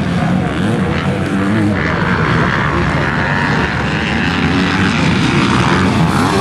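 Honda CRF250R dirt bike's single-cylinder four-stroke engine running hard, its revs rising and falling again and again as it is ridden around the track.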